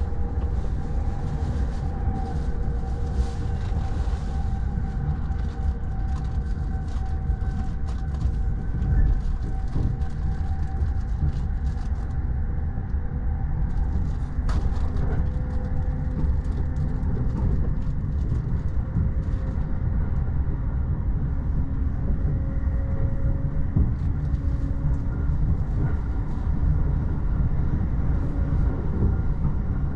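JR East E231 series electric train running at speed, heard inside the bilevel Green car: a steady low rumble of wheels on rail with faint whine tones that slowly shift in pitch, and scattered light clicks from the track.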